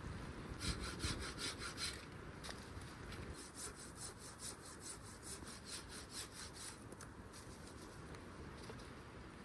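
Hand saw cutting wood, in two runs of quick rasping strokes about four a second, with a short pause between them.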